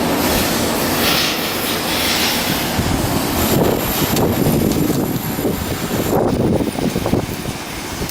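Loud, steady shipyard work noise: a dense hiss over a rumble from machinery and tools, with no clear rhythm.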